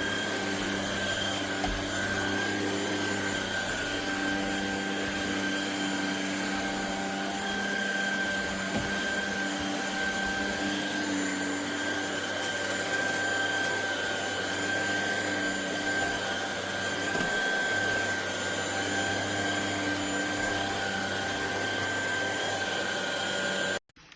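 ElecKeys K10 cordless stick vacuum running steadily: a motor whine with a steady high tone over the rush of air. It cuts off abruptly near the end.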